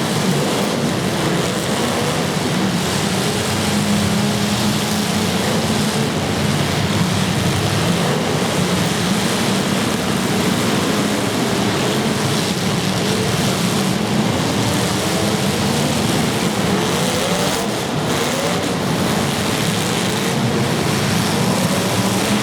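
Several demolition derby cars' engines running loudly and revving, rising and falling in pitch, in a steady dense din.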